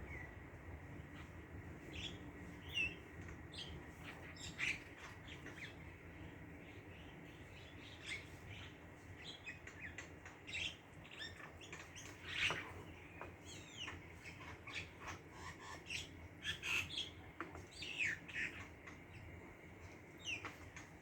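Small birds chirping: short, scattered calls from several birds, growing busier about a third of the way in.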